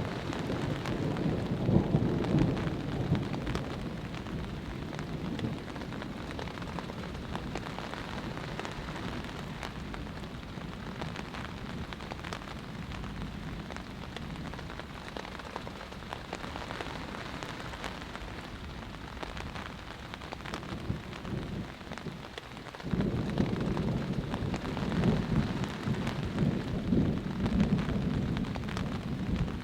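Heavy rain falling steadily in a thunderstorm, a dense patter of drops, with a low rumble of thunder in the first few seconds that fades, then starts again abruptly in the last third.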